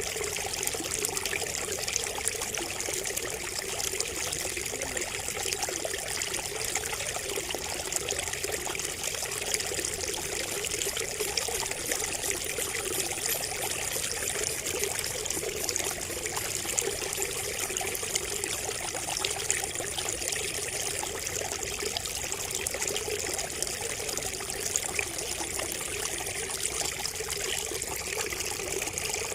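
Water trickling and splashing steadily from a bamboo spout, with a continuous light patter.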